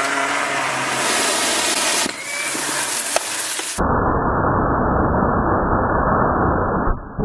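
Vacuum cleaner motor running with a steady whine under a hiss that grows stronger about a second in. A few seconds in the sound changes abruptly to a loud, muffled rushing noise with the high end gone.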